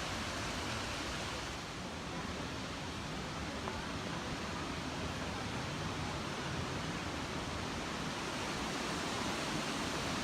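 A waterfall's steady rush of falling water, an even noise that holds level throughout.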